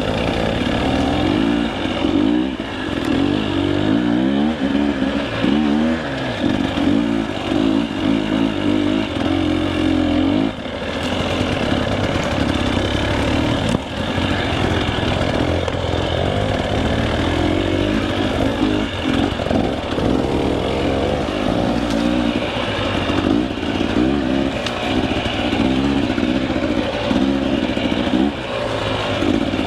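Two-stroke enduro dirt bike engine, a KTM 300 EXC, revving up and down over and over as it is throttled through rough, technical trail.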